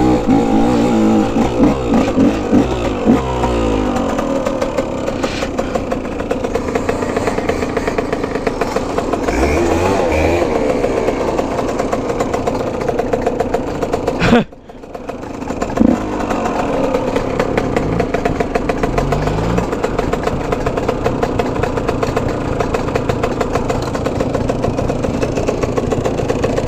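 Dirt bike engine running and revving, its pitch rising and falling as the throttle is worked. About halfway through the sound drops out suddenly for a moment and then comes back.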